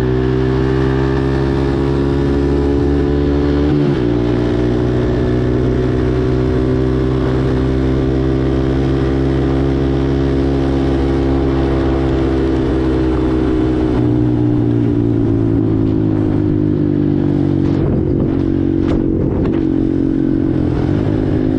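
Four-wheeler (ATV) engine running while riding, its note changing sharply about four seconds in and easing down and shifting again about fourteen seconds in, with a few clattering knocks near the end.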